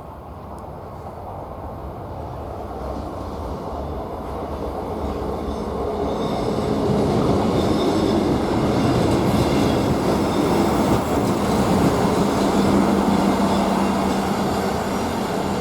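A train approaching on the track, growing steadily louder for about eight seconds and then running loud and steady, with a low steady hum joining about twelve seconds in.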